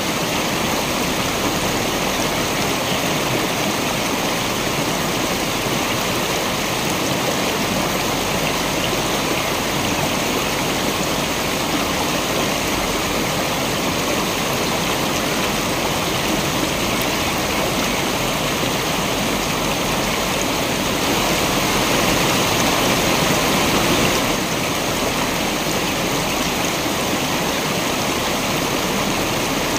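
Waterfall: a steady rush of falling water, rising slightly in level for a few seconds about three-quarters of the way through.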